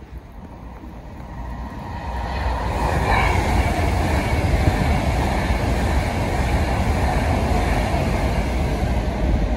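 Northern Class 195 diesel multiple unit approaching. Its running noise and low rumble grow louder over the first three seconds, then hold steady and loud, with a faint whine that slowly falls in pitch.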